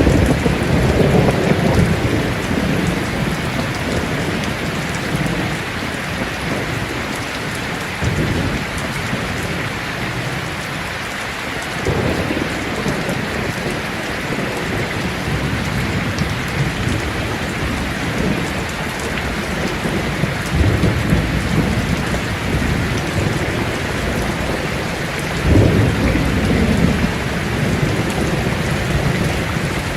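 Heavy rain drumming steadily on a tin roof, with several low rolls of thunder; the loudest comes about five seconds before the end.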